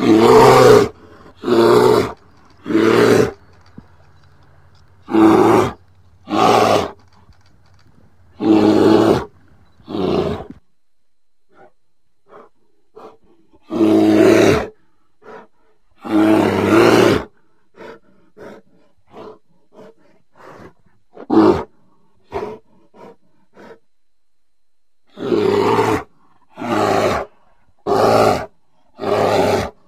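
Bear roaring over and over, each roar about a second long with pauses between. Through the middle come shorter, quieter grunts, then a quick run of loud roars near the end.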